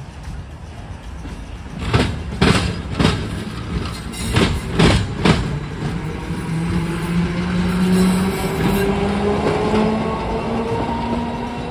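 Railroad train wheels clunking over a rail diamond crossing, six sharp clunks in two groups of three, about half a second apart. After them comes a low hum that slowly rises in pitch.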